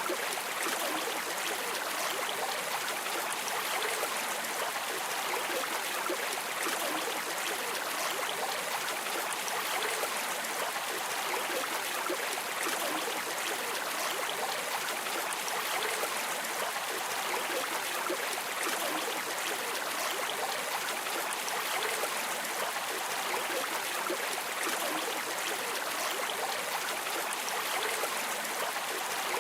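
Flowing river water: a steady, even rush with most of its sound in the middle and upper range and hardly any low rumble.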